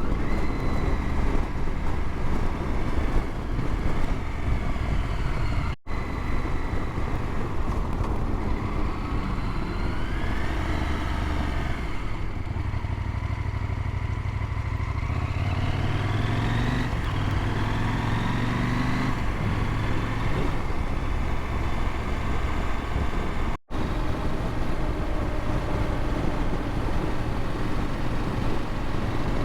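KTM motorcycle engine running steadily while riding, over a constant low rush of road noise; twice in the middle the engine pitch climbs as it revs up. Two brief dropouts break the sound.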